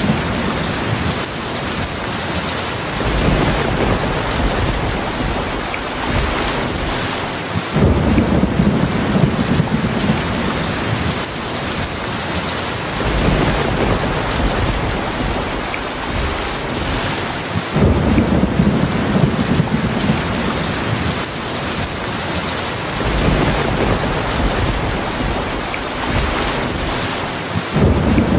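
Heavy rain falling steadily, with low rolls of thunder. A deep rumble starts suddenly about every ten seconds: near 8 seconds in, near 18 seconds in, and again at the very end.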